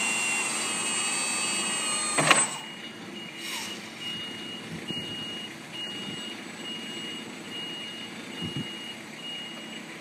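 Jungheinrich EFGVac25 electric forklift: a steady electric whine, typical of the hydraulic pump driving the mast, cuts off with a loud clunk about two seconds in. After that the truck's warning beeper sounds a short high beep over and over, a little under two a second.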